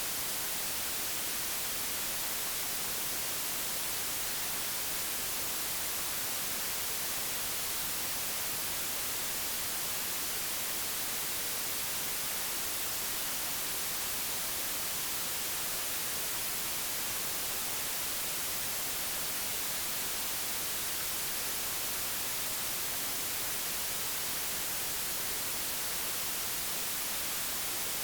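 Steady, unchanging white noise, digitally generated: an even hiss across the whole range, brightest in the treble.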